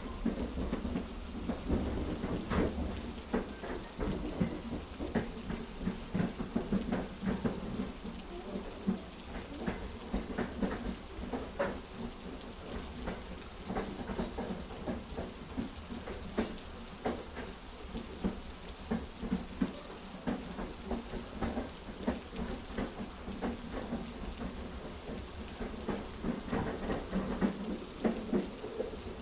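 Heavy rain falling steadily over a continuous low rumble, with frequent irregular sharp ticks.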